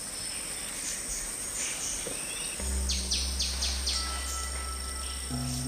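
Tropical rainforest ambience: a steady high insect drone with short bird calls, including a quick run of four bright calls about three seconds in. About two and a half seconds in, a low held note of background music comes in, and more notes enter near the end.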